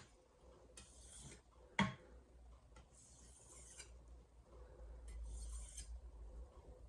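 VG10 stainless santoku blade drawn across a Shapton Glass whetstone in single alternating strokes to remove the burr, each pass a soft scrape of about a second. There is a sharp click about two seconds in.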